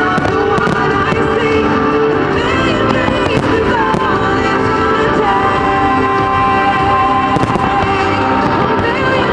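Display fireworks going off over loud accompanying music, with several sharp bangs, a cluster of them near the end, in a fireworks show set to music.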